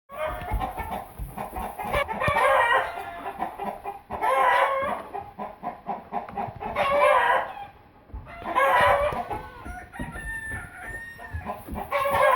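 Loud farm-animal calls, each under a second long and wavering in pitch, repeated about every two seconds.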